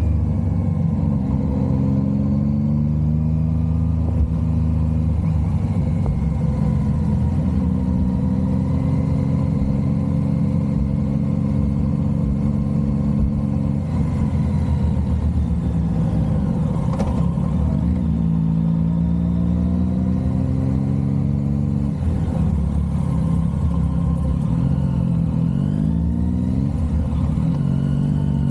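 Motorcycle engine under way, its pitch rising as it pulls and dropping back at gear changes and when easing off, several times over.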